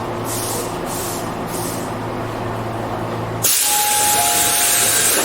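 Tobu 8000 series electric train standing at a station: a steady low hum with three short hisses of released air, then about three and a half seconds in the hum stops and a loud, sustained rush of compressed air begins, typical of the pneumatic doors opening.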